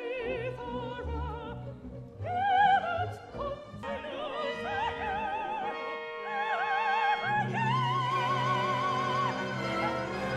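Operatic singing with a wide vibrato over orchestral accompaniment; a long high note is held about three quarters of the way in.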